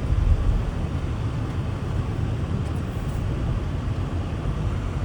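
Car driving slowly through snow, a steady low rumble of engine and tyres heard from inside the cabin.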